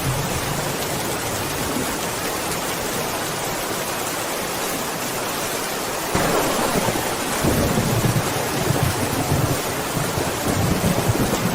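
Steady rain falling, with a sudden clap of thunder about halfway through that rolls on as a low, swelling rumble.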